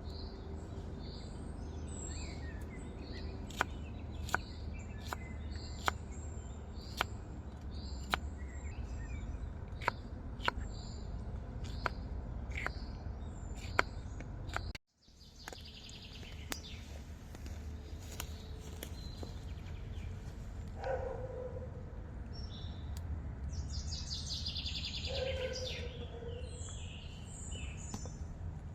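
Birds chirping over a steady low rumble, with sharp irregular clicks or snaps in the first half and a brief cut-out about halfway through.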